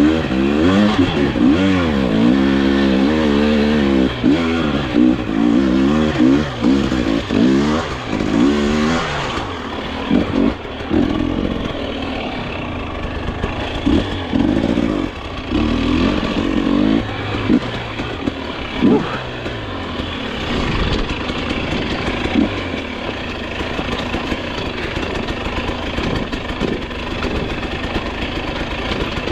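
Dirt bike engine revving hard, its pitch climbing and falling repeatedly for the first several seconds, then short bursts of throttle, and a steadier, lower running in the last third.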